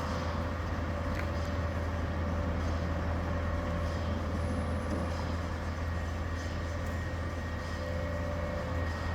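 Garbage truck's engine running steadily: a continuous low rumble with a faint steady whine above it.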